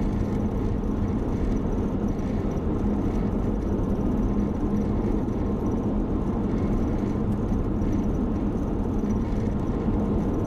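Steady road and engine noise inside a moving car's cabin at highway speed, an even low rumble with a constant low hum.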